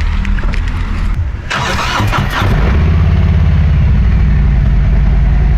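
A motorcycle engine is started about two seconds in, after a short burst of cranking noise, and settles into a steady idle. Another engine is already running underneath.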